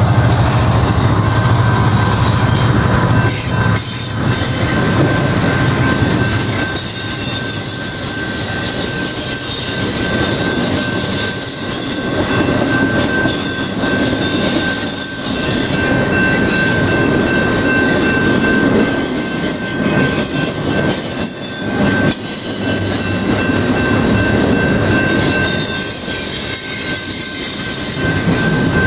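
A freight train of double-stack container well cars rolling past, with continuous wheel-on-rail noise, a thin steady high squeal from the wheels, and irregular clacks over the rail joints. A low engine rumble from the locomotive that has just passed fades out in the first few seconds.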